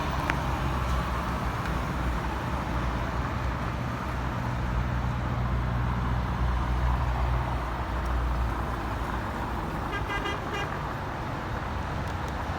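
Passenger train hauled by a TCDD E68000-class electric locomotive, running with a steady low rumble. About ten seconds in, a short, choppy high-pitched toot sounds.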